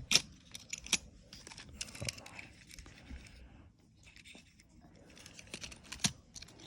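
Small diecast toy cars being handled, giving scattered light clicks and clinks, the sharpest just at the start and about six seconds in.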